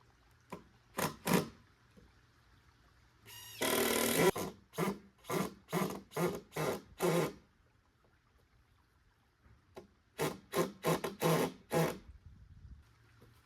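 Carpentry work on wood: a short dense burst about three and a half seconds in, then a run of sharp knocks about two a second. After a pause, a quicker cluster of knocks follows near the end.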